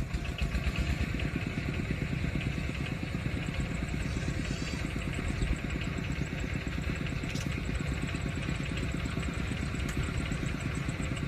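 A small engine running steadily, with a fast, even pulsing.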